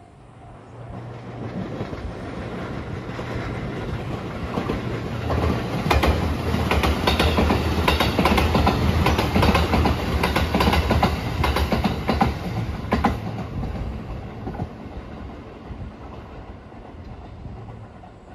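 A Rapid Marine Liner electric multiple-unit train passing: it builds as it approaches, then its wheels clack over the rail joints in a regular rhythm, with a low hum beneath, before the sound fades away.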